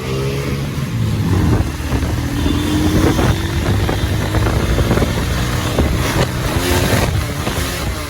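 Motorcycle engine running on the road amid traffic, its note rising a couple of seconds in and wavering near the end.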